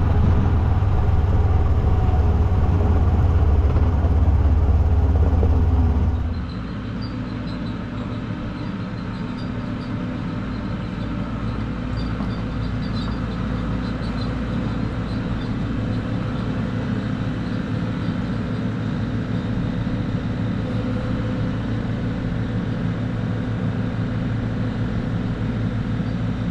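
Wood-Mizer LT50 sawmill's engine running steadily and loud, dropping to a quieter, even run about six seconds in.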